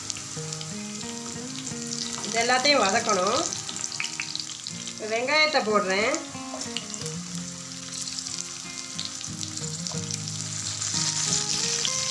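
Green chillies, garlic and ginger sizzling steadily in hot oil in a nonstick pan. The sizzle grows brighter near the end, as onions go in and are stirred with a spatula. Background music with a wavering melody rises over it twice.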